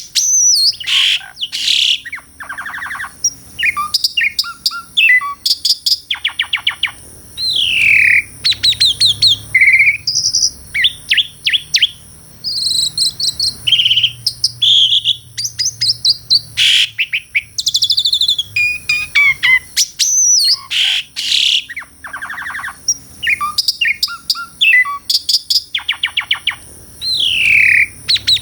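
Asian pied starling (jalak suren) singing a loud, varied song: sweeping whistles, quick rattling runs of notes and short chirps, with brief pauses between phrases.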